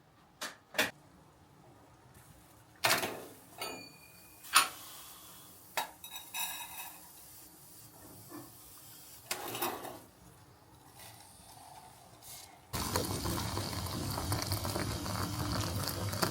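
Dishes and utensils clattering: a string of separate clinks and knocks. Near the end comes about four seconds of steady rushing noise that cuts off suddenly.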